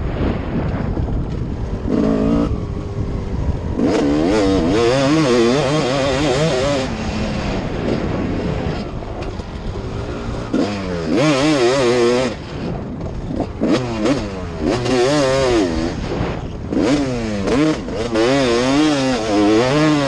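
Motocross dirt bike engine revving in several spells, its pitch rising and falling quickly as the throttle is worked, with rough wind and road noise between the spells.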